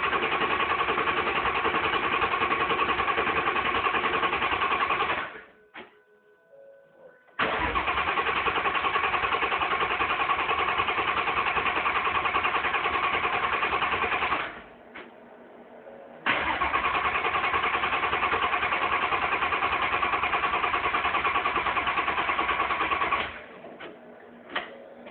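Shelby GT350 engine being cranked on the starter for a cold start after an oil pump gear install, in three long steady bursts of about five to seven seconds each, every one cutting off abruptly.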